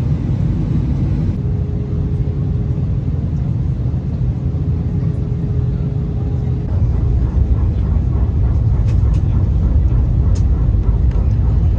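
Airbus A319 cabin noise on descent: a steady low rumble of engines and airflow. A faint steady hum sounds for a few seconds, and in the second half the rumble grows a little louder, with a few faint rattles.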